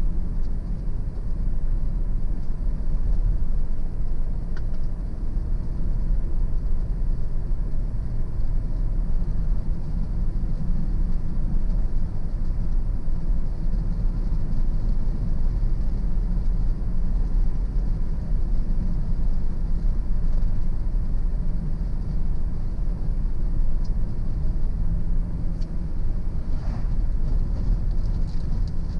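Car driving steadily on a road: continuous engine and tyre rumble, deep and even, with no change in speed.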